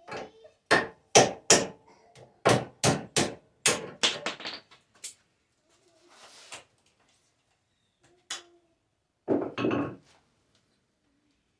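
Hammer blows, about ten sharp strikes in a quick, uneven run over the first five seconds. After a pause there is a single knock, then a short, louder clatter of hits near the end.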